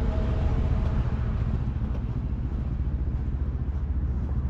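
Vehicle engine running steadily while driving, with a low, even rumble of engine and road noise.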